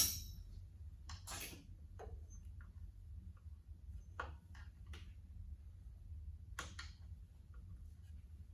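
Scattered clicks and knocks of tools and parts being handled during repair work on a tractor engine. They open with one sharp, ringing clank, the loudest sound.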